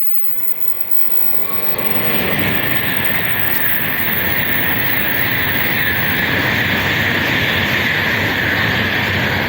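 Tokaido Shinkansen bullet train passing through a station at high speed without stopping: a rush that swells over the first two seconds into a loud, steady roar and hiss, beginning to die away at the end.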